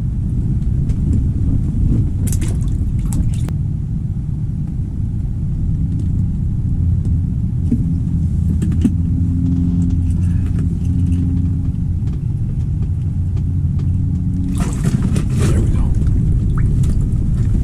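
Strong wind buffeting the microphone, a steady low rumble, with brief hissy bursts about two to three seconds in and again near the end.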